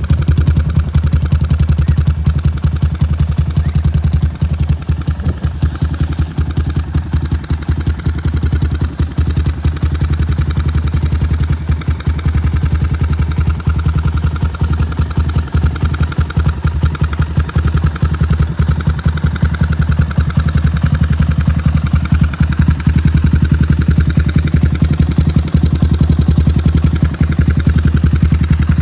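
Honda XR650L's air-cooled single-cylinder four-stroke engine idling through a Dual Empire aftermarket full exhaust: a steady, loud run of evenly spaced exhaust pulses.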